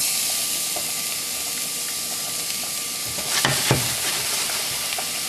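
Chopped shallots sizzling in hot oil in a stainless steel sauté pan, the sizzle starting suddenly as they hit the oil and then holding steady. A couple of short clicks come about three and a half seconds in.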